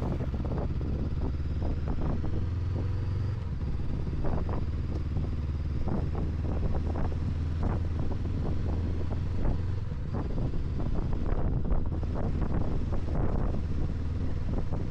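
Honda NX500's parallel-twin engine running steadily at a constant low drone, with frequent irregular knocks and clatters from riding over a rough, gravelly road.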